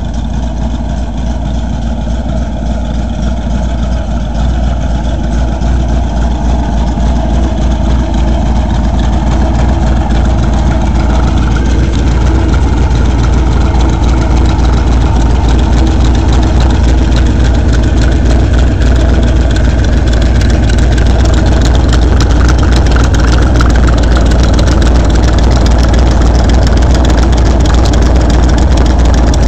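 Hot-rodded V8 in a 1928 Ford roadster pickup, fitted with dual 94 carburetors and a Lunati 512/512 cam, idling steadily and growing gradually louder.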